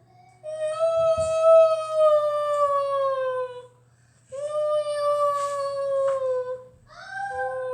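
A child's voice holding three long sung or hummed notes, each sliding slowly down in pitch, the last one shorter. A steady low hum runs underneath.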